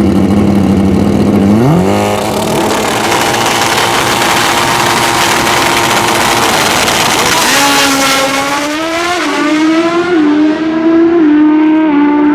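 Pro Street drag racing motorcycle launching: a steady engine note jumps sharply in pitch about two seconds in, then a loud full-throttle roar. In the second half the pitch climbs and drops back several times, about once a second, as the bike shifts up through the gears.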